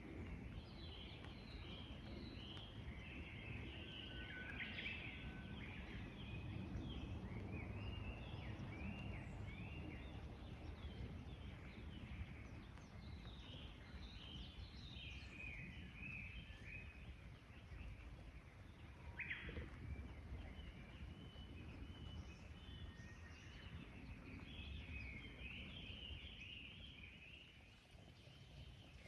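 Small songbirds chirping and twittering, with many short high calls overlapping, over a steady low rumble.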